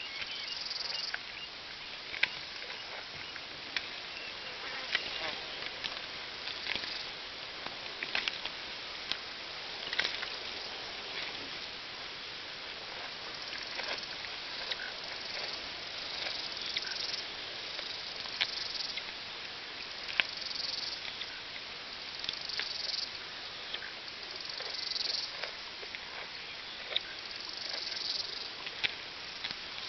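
Outdoor field ambience: insects buzzing over a steady hiss, the high buzz swelling and fading every couple of seconds, with scattered sharp clicks.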